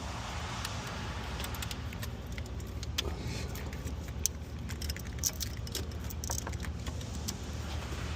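Irregular light metallic clicks and clinks of hardware and hand tools being handled during engine-bay work, over a steady low hum.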